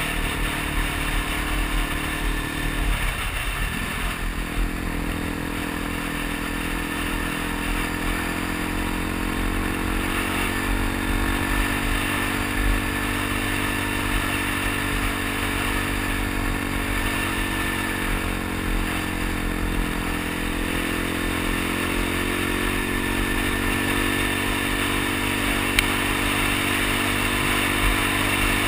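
Suzuki DR-Z dual-sport's single-cylinder engine running at a steady cruise, under wind and road noise. About three seconds in, the engine note drops and picks up again, as with a gear change or easing off the throttle.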